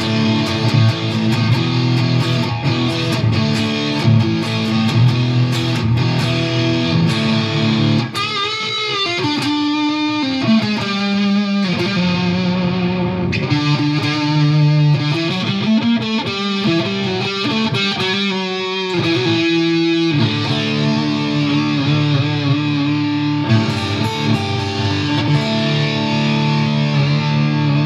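Electric guitar, a Fender Deluxe Players Stratocaster, played through a Fender Mustang GTX100 modelling amp on one of its presets. It is strummed in chords, moves to single held notes that waver in pitch about a third of the way in, and goes back to chords for the last few seconds.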